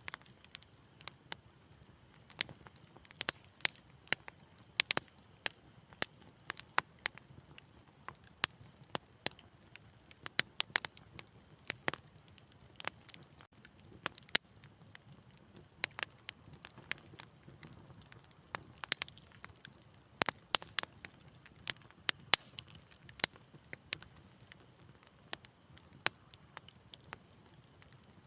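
Wood fire in a fireplace crackling: sharp, irregular pops and snaps, several a second at times, over a faint low rumble of the burning.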